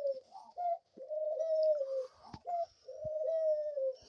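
Pet dove cooing: a short note followed by a long, drawn-out coo of about a second, given twice.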